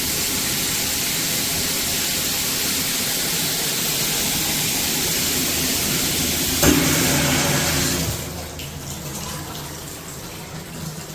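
Water streaming from a 12-inch rain shower head, a steady hiss, with a brief knock a little before it drops to a quieter level about eight seconds in.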